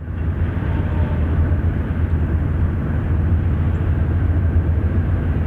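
Steady, loud low engine rumble.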